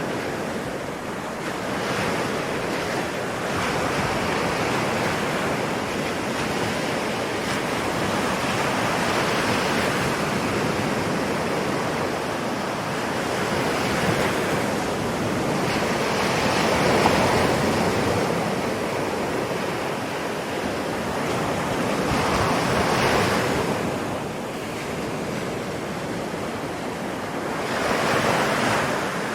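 Ocean surf: a continuous wash of waves that swells louder every few seconds as each wave breaks, then eases off.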